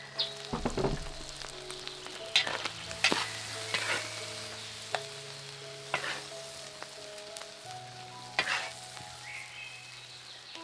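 Food sizzling as it fries in a pan, stirred with a utensil that scrapes and knocks against the pan every second or two.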